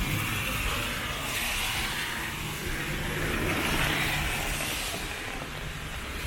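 City street traffic on a wet road: cars passing with a steady tyre hiss that swells and fades twice.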